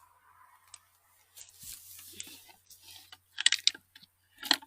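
Footsteps through dry forest litter: a soft rustle, then two clusters of sharp crackles and snaps near the end as dry twigs and leaves break underfoot.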